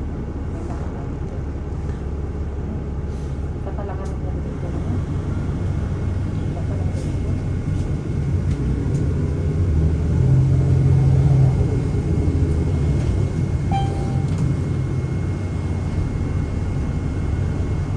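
Inside a moving city bus: steady engine and road rumble, swelling briefly about ten seconds in.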